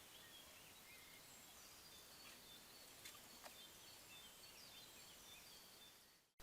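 Faint birdsong: many short chirps and whistles from small birds over a steady hiss, with two brief clicks about three seconds in. The sound fades out just before the end.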